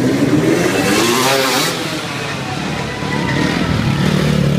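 Motocross dirt bike engine revving hard, climbing in pitch over the first second and a half. It blips up and down again about three seconds in.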